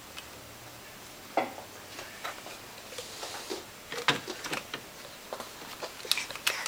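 Scattered light clicks and knocks of plastic toy kitchen pieces being handled, with small doors and a toy cup bumped and set down a few times.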